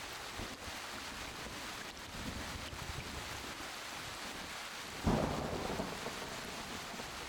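Steady rain with a sudden clap of thunder about five seconds in that rumbles away.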